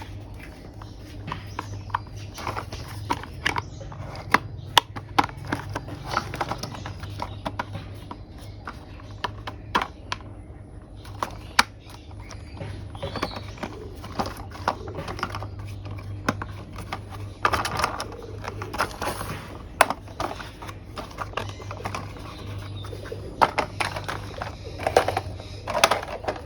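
Hard plastic toy vehicle parts clicking and knocking as they are handled and fitted together, in irregular sharp taps that bunch up in quick clusters near the end. A steady low hum runs underneath.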